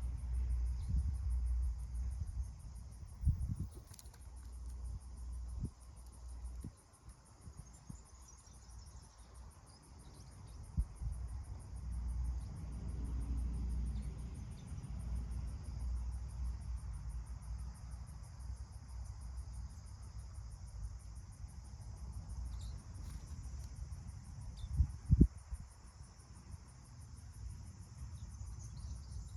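A steady, high-pitched insect trill with a rapid, even pulse, over a low rumble. There are a few dull thumps, the loudest about 25 seconds in.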